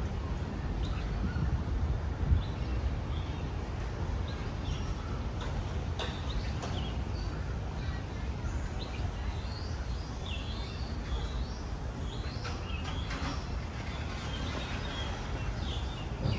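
Small birds chirping, with many short calls scattered through, busiest in the second half, over a steady low rumble.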